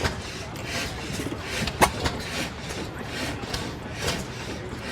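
Old International Harvester Famous stationary gas engine running slowly, with a rhythmic swishing beat of about one and a half strokes a second and a single sharper crack about two seconds in.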